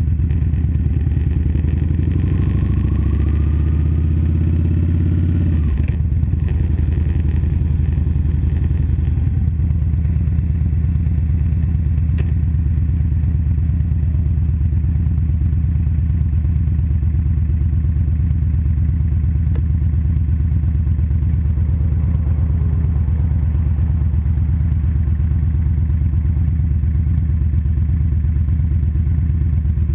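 A Victory Vegas 8-Ball's V-twin engine, heard close up. It runs at low speed with shifting pitch for the first several seconds, drops off sharply about five and a half seconds in, then idles steadily as the motorcycle sits stopped.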